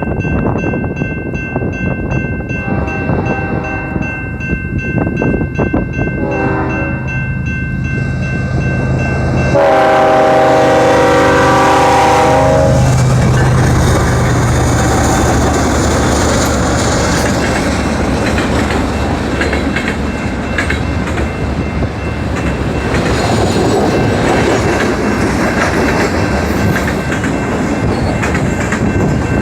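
Diesel freight locomotive air horns sounding a horn salute: two shorter blasts, then a long, louder blast about ten seconds in. After it comes the steady rumble and clickety-clack of freight cars rolling past.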